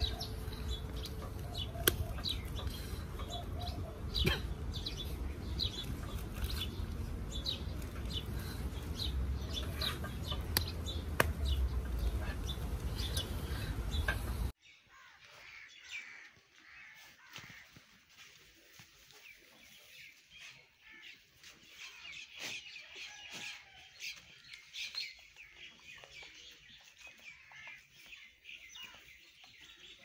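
Birds chirping in short repeated calls over a low rumble. About halfway through, the sound cuts abruptly to a quieter stretch of denser, continuous chirping.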